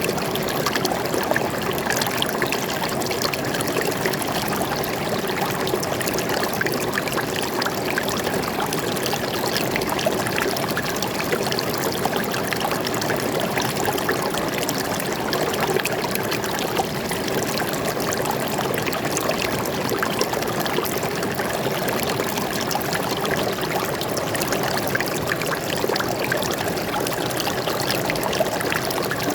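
Water flowing steadily over rocks in a forest stream: an even rushing with fine trickling and splashing, unchanging throughout.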